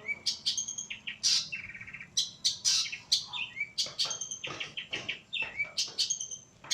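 Long-tailed shrike (pentet) singing a rapid, unbroken run of short harsh, scratchy notes mixed with brief clear whistles.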